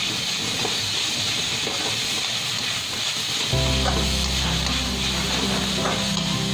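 Chopped vegetables sizzling in hot oil in a kadhai as they are stir-fried, with a perforated metal spoon scraping and clicking against the pan now and then. Background music with a low bass line comes in about three and a half seconds in.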